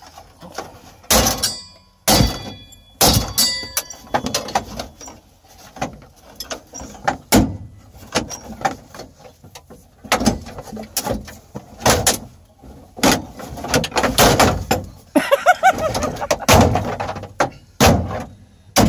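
A GMC truck's dashboard being torn apart by hand: irregular cracks, snaps and knocks as plastic trim is pried and broken loose, with a brief squeak about a second in.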